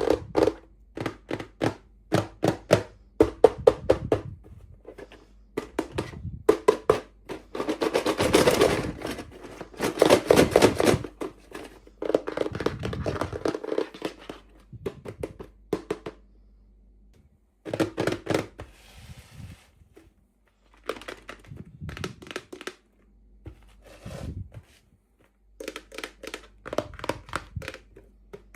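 Hands unboxing small plastic toys: a string of sharp clicks, taps and light thunks, with a few longer stretches of rustling packaging.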